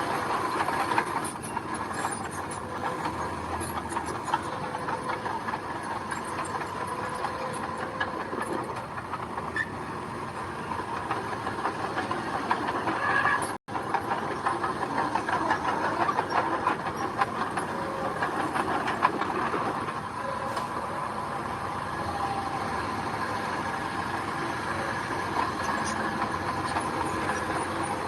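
Earth-moving machinery running steadily, an engine under a continuous metallic clatter and hiss. The sound breaks off for an instant about halfway through, then carries on the same.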